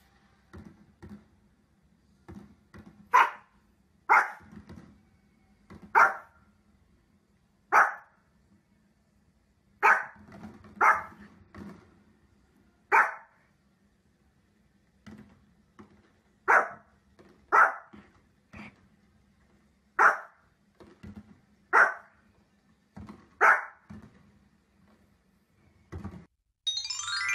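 A small Pomeranian barking repeatedly, about fifteen short, sharp barks one every second or two, with fainter pops and knocks between them. A rising whoosh sound effect comes in near the end.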